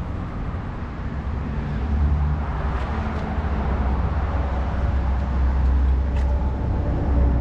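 Steady low rumble of road traffic, growing a little louder about two seconds in.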